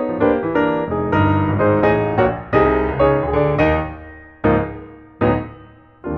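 Piano music: a stream of quick notes, then, from about four and a half seconds in, three separate chords, each struck and left to ring and fade.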